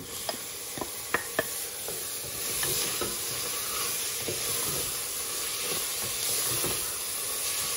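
Diced tomatoes sizzling in hot oil with fried onion and turmeric masala in a pressure cooker pot on high heat, stirred with a wooden spoon. A few sharp knocks of spoon against bowl and pot in the first second and a half, then a steady frying hiss.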